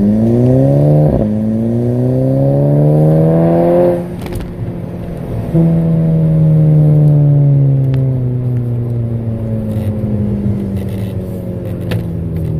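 Turbocharged Volkswagen four-cylinder pulling through the gears, heard through a 3-inch downpipe and a muffler-less Volkswagen sport exhaust: the note climbs, breaks at a shift about a second in, climbs again, drops off about four seconds in, then comes back with a slowly falling pitch. The new diverter valve is working normally.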